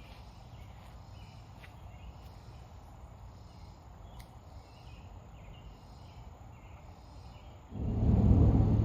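Insects chirping faintly over quiet outdoor ambience, a short chirp repeating about twice a second. Near the end a loud low rumble with a steady hum starts suddenly.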